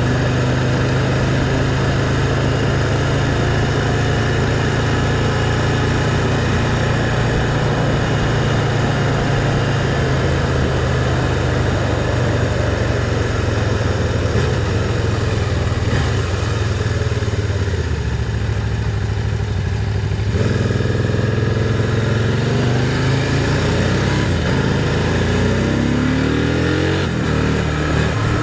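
Can-Am Spyder three-wheeled motorcycle running steadily under way. From about two-thirds of the way through, the engine revs rise and fall.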